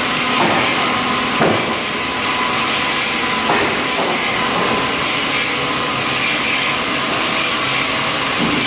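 Sawmill machinery running: a log saw cutting wood as the automatic log carriage feeds the log, a loud steady hiss with a few brief knocks.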